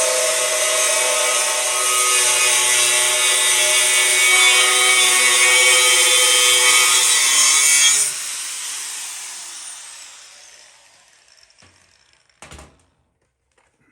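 Angle grinder with a cutting disc cutting through steel plate, a loud steady scream; about eight seconds in it is switched off and winds down over a few seconds. A short knock follows near the end.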